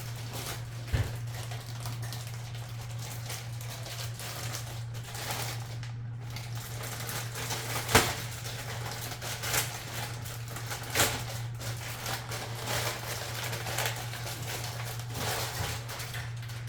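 Packaging being handled while unboxing a pair of clogs: irregular clicks, taps and rustles, with a sharper snap about 8 seconds in, over a steady low hum.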